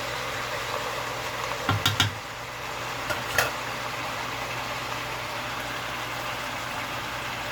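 A steady low hum in a kitchen during cooking, with a few short knocks about two seconds in and one more a second and a half later.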